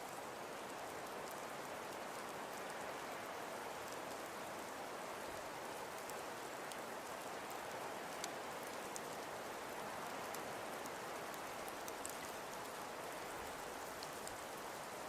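Wood fire burning in a fireplace: a steady soft hiss with sparse small crackles and a sharper pop about eight seconds in.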